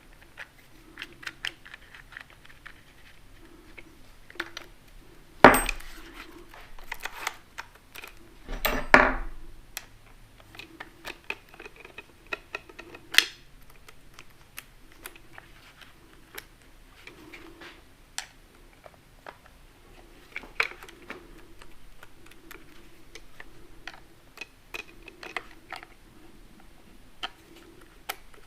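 Small clicks and clinks of hand tools and small metal and plastic parts being handled while a mini cordless chainsaw's bar and chain are put back on, with two louder knocks about five and nine seconds in.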